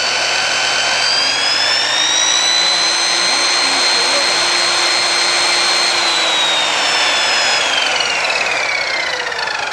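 Tacklife sliding compound miter saw's electric motor and metal-cutting blade spinning with no load, a loud high whine. The whine climbs in pitch about a second in, holds steady, then falls away from about six seconds in as the blade winds down.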